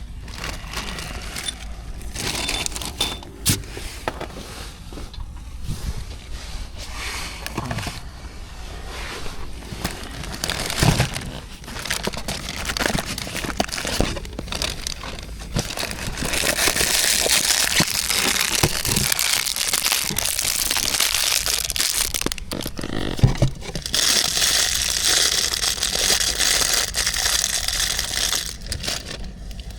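Crinkling and rustling handling noise with scattered clicks, giving way about halfway through to long stretches of steady hiss.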